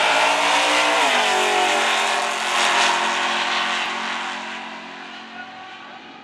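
Jeep Grand Cherokee tough truck's engine revving hard, its pitch dropping about a second in, then running steadily as it fades away.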